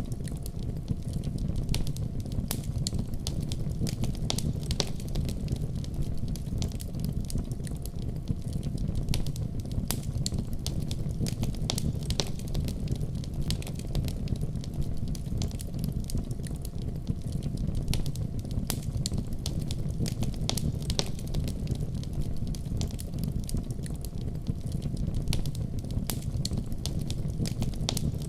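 Wood fire crackling and popping, with many irregular sharp pops over a steady low rumble.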